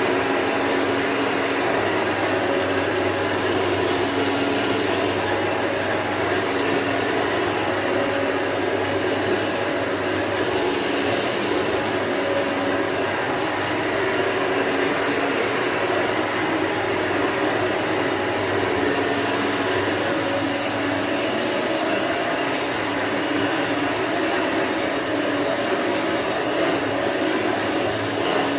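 Hoover Elite II upright vacuum cleaner running steadily, its motor giving a constant rushing noise with a faint whine.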